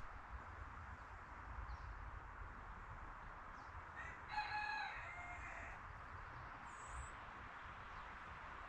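A rooster crows once, about four seconds in, a single call of roughly a second and a half. A small bird gives a brief high chirp near the end, over a steady background hiss.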